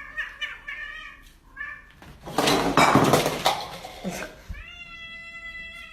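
Domestic cat meowing: a few short meows, then a loud burst of noise about two seconds in, then one long, drawn-out meow near the end.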